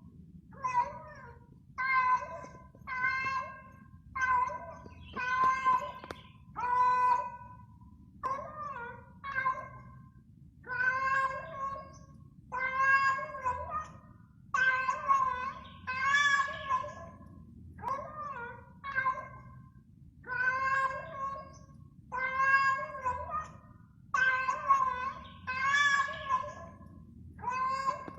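Mother domestic cat meowing mournfully over and over, about one call a second, calling for her four lost kittens.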